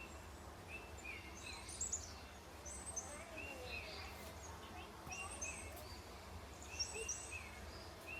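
Small birds chirping in short high phrases that repeat about every second, over a steady low rumble.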